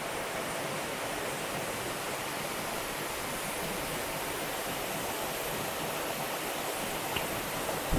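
Mountain stream water rushing with a steady, even sound.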